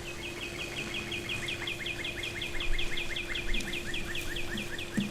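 A bird calling in a long, fast series of short downslurred chirps, about six a second, over a steady low hum.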